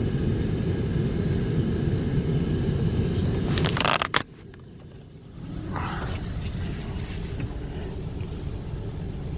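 Steady low vehicle rumble. About four seconds in it is cut off sharply with a click, then comes back more quietly a second or so later.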